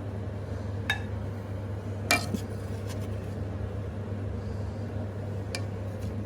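A spoon clinking against bowls three times as rice is served out, the second clink the loudest, over a steady low hum.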